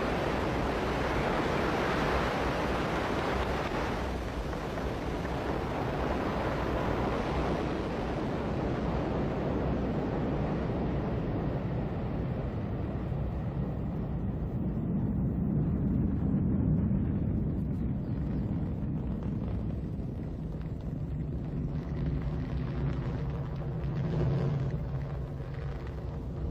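Ariane 5 rocket climbing away after liftoff: a broad, steady rumble of engine and booster noise whose hiss fades over the first dozen seconds, leaving a low rumble.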